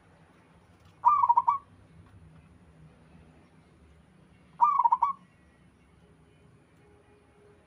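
Zebra dove (perkutut) cooing: two short bursts of rapid stuttering coos, about three and a half seconds apart.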